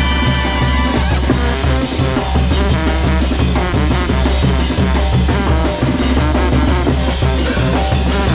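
Mexican banda brass band playing a lively, upbeat tune: brass and wind instruments over a heavy sustained bass line, with a steady beat of drum and cymbal strokes.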